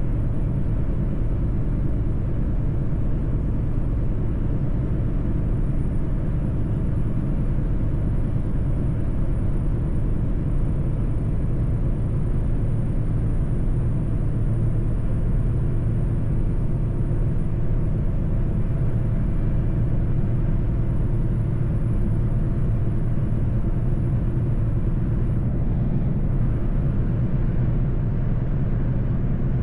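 Mercedes-Benz truck driving at a steady pace: an unbroken low rumble of engine and road noise with no changes.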